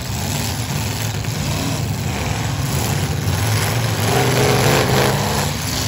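Demolition derby car engines running and revving, growing louder about four seconds in.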